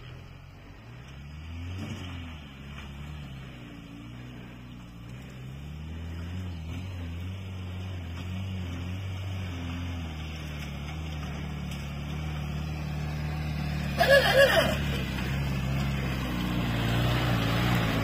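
Off-road 4x4's engine running at low revs, its pitch rising and falling and growing gradually louder. A brief loud burst of sound about fourteen seconds in.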